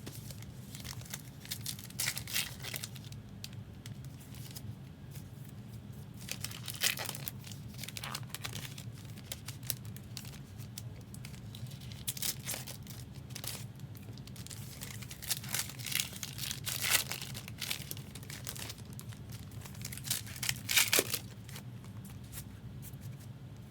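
Foil trading-card pack wrappers being torn open and crinkled by hand, in scattered short bursts, over a steady low hum.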